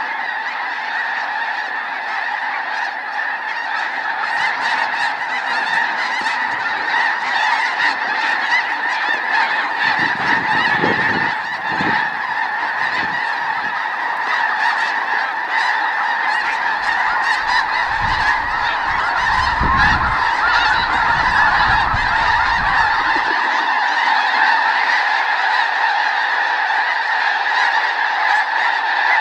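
A large flock of snow geese calling continuously, a dense overlapping chorus of high honks. A low rumble comes and goes twice, around ten seconds in and again around twenty seconds in.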